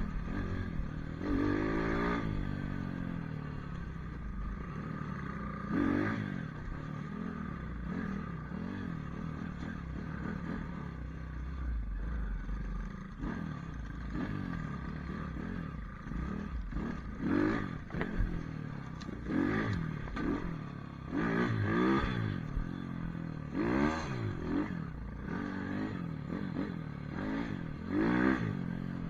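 Pit bike engine running under way off-road, revving up and dropping back again and again, with clattering from the bike over rough ground.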